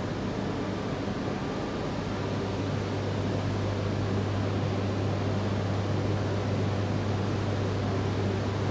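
Steady low electrical hum with an even fan-like rush from a stopped E3-series Shinkansen train's onboard equipment, growing slightly louder.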